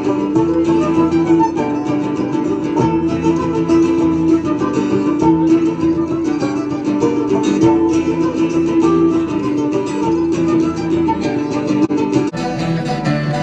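Folk band playing a lively tune: plucked strings under a sustained melody line, the arrangement shifting about a second before the end.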